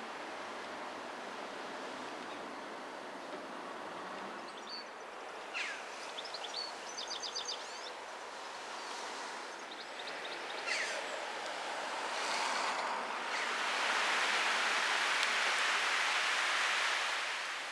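Steady outdoor rushing noise with a few short bird chirps and trills in the middle, and a louder hiss that swells about thirteen seconds in and fades away near the end.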